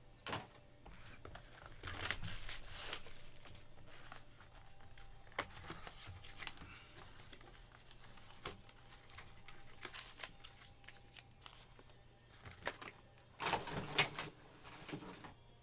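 Packaging being handled at close range: crinkling and tearing of wrappers with scattered small clicks. There are two longer rustles, one about two seconds in and one near the end.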